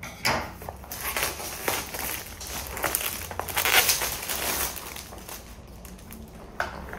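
Packaging being handled and opened, with irregular rustling and crinkling that is loudest a little past the middle.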